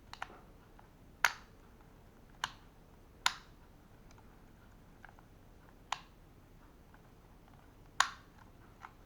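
A few scattered sharp clicks and taps, about eight in all, the loudest near the start and near the end, from handling a new baitcasting fishing reel and its small plastic and metal parts.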